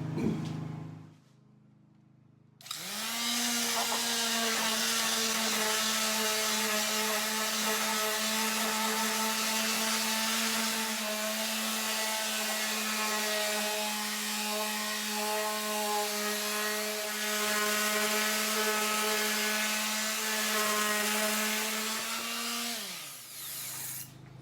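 Electric palm sander with 80-grit paper sanding a rough-sawn red oak board. It is switched on about three seconds in, spins up to a steady whine with the scratch of the paper on the wood, then is switched off near the end and winds down.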